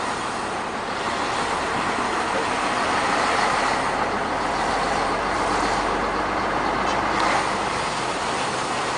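Heavy truck driving past on a highway, a steady rush of tyre and engine noise that grows louder about a third of the way in.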